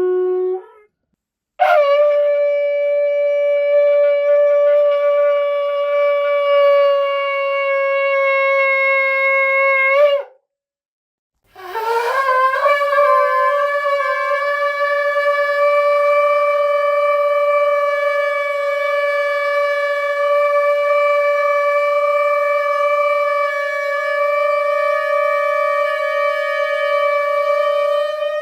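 Shofar blasts: a lower note ends in the first second, then two long held notes follow with short silent gaps between. The first lasts about eight seconds and the second about seventeen, and each begins with a brief upward break in pitch.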